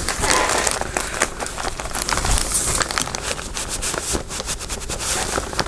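Close crinkling and rustling of crafting materials being handled, a busy run of quick crackles and clicks with no pause.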